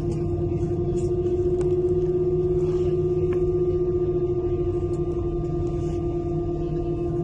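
Airbus A320 jet engines running steadily: a constant droning tone over a low rumble, holding level with no spool-up.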